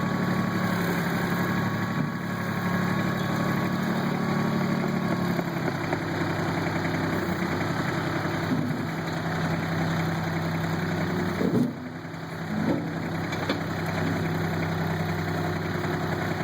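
Kubota tractor's diesel engine running at a steady speed, its note stepping slightly lower about five seconds in. About twelve seconds in the level dips briefly and a couple of short clunks sound.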